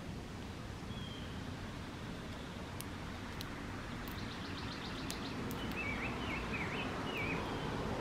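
Small songbirds calling over a steady outdoor background hiss and rumble: a short chirp about a second in, a quick rattle of high ticks midway, then four short wavering whistled notes.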